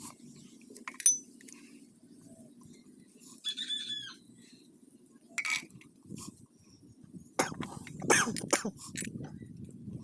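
Scattered metallic knocks and clinks from tools worked against a motorcycle wheel's sprocket hub, with a cluster of quick strikes near the end. A bird chirps briefly about three and a half seconds in.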